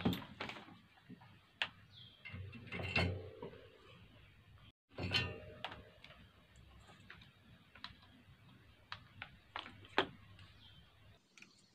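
Scattered small clicks, taps and knocks of hand tools and small parts being handled during an appliance repair, with a sudden drop to complete silence for a moment just before the five-second mark.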